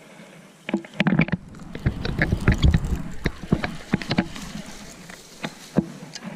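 Water sloshing and splashing with a run of sharp knocks, heaviest in the first half and thinning to scattered clicks.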